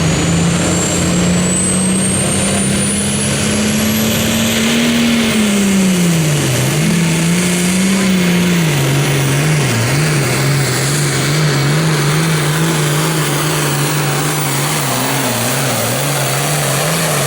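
Turbocharged diesel engine of a Super Farm pulling tractor running at part throttle. The revs climb slowly for the first few seconds along with a rising turbo whistle, then drop back and waver up and down.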